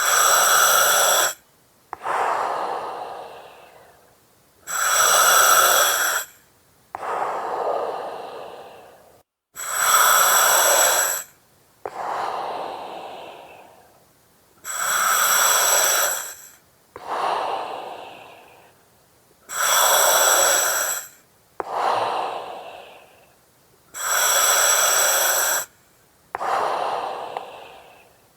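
Slow, regular breathing through an oxygen mask, about one breath every five seconds: each inhale draws a loud hiss from the mask's regulator that starts and stops abruptly, and each exhale is a softer breath that fades away.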